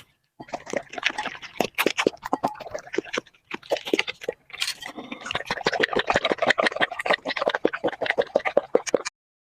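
A puppy chewing and crunching food with rapid, wet, clicking bites, pausing briefly twice.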